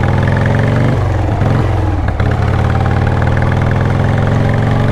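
Motorcycle engine running steadily under way, its note easing off briefly about a second in and again around two seconds in.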